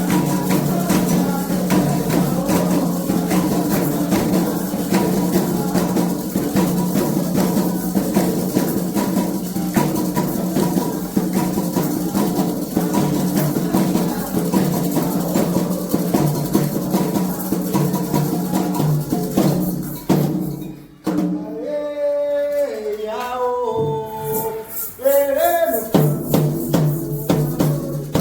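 Candomblé ritual music: hand drums and shaken percussion playing a dense, steady rhythm under singing. About twenty seconds in the drumming drops out and a single voice sings a line alone, and the drums come back in near the end.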